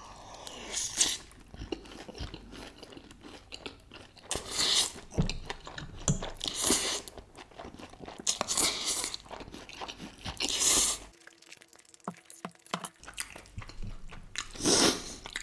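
Close-miked mouth sounds of a person eating Samyang 2x Spicy instant noodles: several loud slurps of noodles, a couple of seconds apart, with wet chewing between them.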